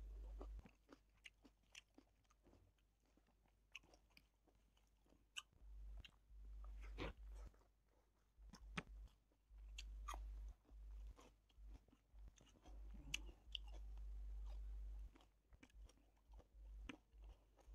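Close-up eating sounds of a man eating rice and meat by hand: faint chewing with scattered wet mouth clicks and smacks.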